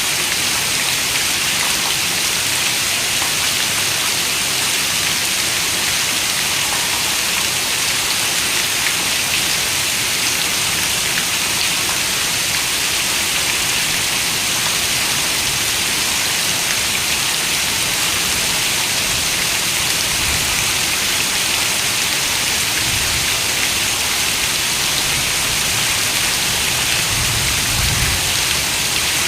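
Steady rain falling, an even hiss with no breaks, with a few soft low rumbles in the last third.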